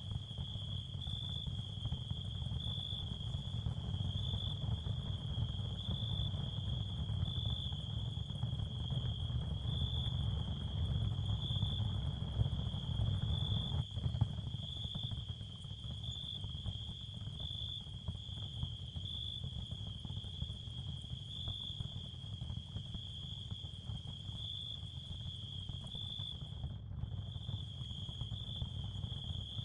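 Crickets chirring in a steady high trill over a low, even rumble, part of an ambient sound bed. The trill briefly cuts out near the end.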